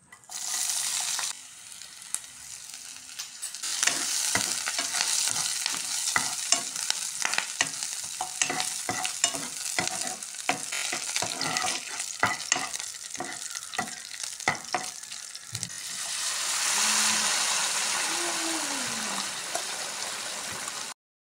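Food frying in hot coconut oil in a pan: a loud sizzle as ingredients go in, then sliced shallots and curry leaves sizzling while a spatula clicks and scrapes against the pan many times. Near the end a louder, smoother sizzle and bubbling as the curry is stirred.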